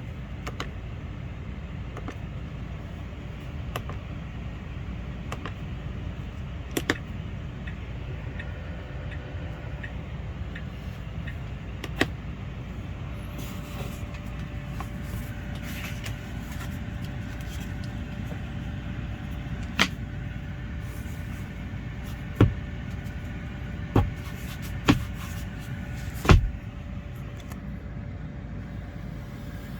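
Steady low vehicle rumble, broken by a handful of sharp clicks and knocks that come closer together in the second half, the loudest near the end.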